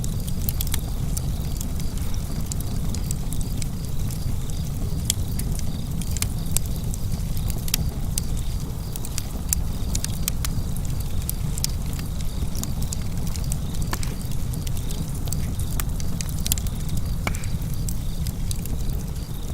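Wood fire crackling in a fireplace: frequent irregular sharp snaps and pops over a steady low rumble.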